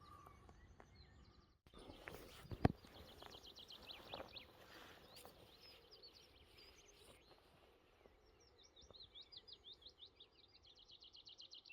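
Faint songbird song in quick repeated chirps and fast trills, busier near the end, with one sharp knock about two and a half seconds in.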